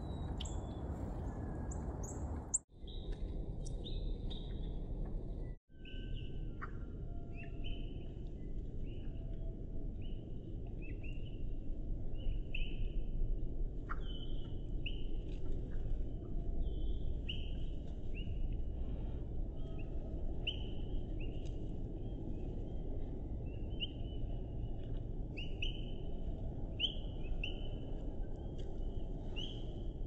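Slowed-down bird chirps, short notes repeated about once a second over a steady low rumble of slowed-down background noise. The sound cuts out briefly twice in the first six seconds.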